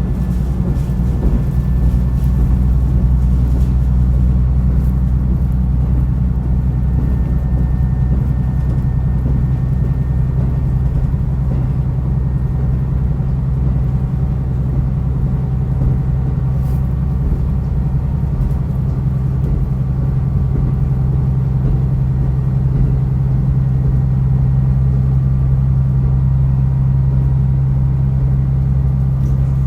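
Diesel railcar on the move, a steady low engine drone with running noise. About halfway through, the deepest part of the drone fades and a slightly higher engine note takes over.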